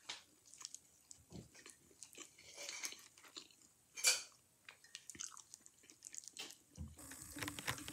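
A person chewing and biting a mouthful of sweet and sour chicken and noodles, with faint crunching. Scattered soft clicks come from a plastic fork working against the plate, the loudest about four seconds in.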